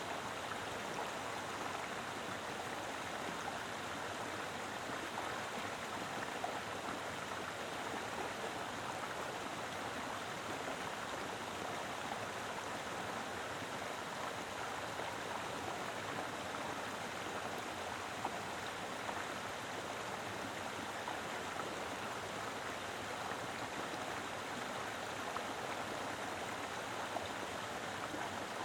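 Mountain river flowing over rocks: a steady rush of water with small splashes and gurgles.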